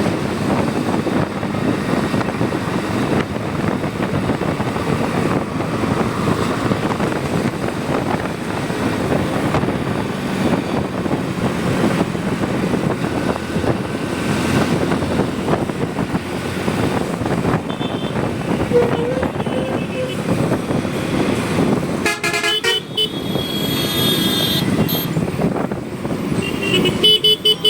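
Steady road noise of a bike ride at night, a rush of wind and traffic. In the last several seconds vehicle horns honk repeatedly.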